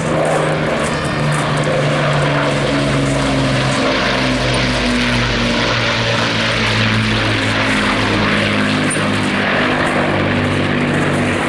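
Avro Lancaster B1's four Rolls-Royce Merlin V12 piston engines droning with propellers as the bomber flies its display. The pitch of the drone drops about halfway through.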